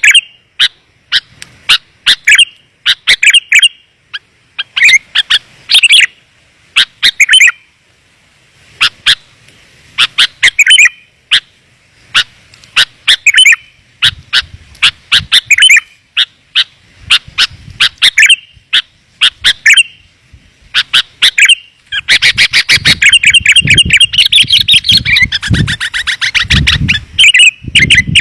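Sooty-headed bulbul (kutilang) calls played as a lure: short, sharp chirps in quick clusters. Near the end they run together into a dense, fast chatter.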